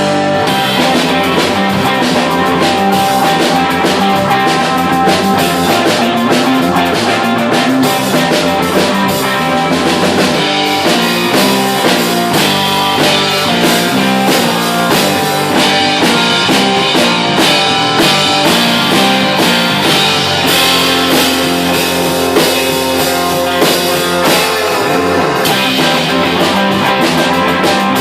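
A live rock band playing: guitar over a drum kit, continuous music.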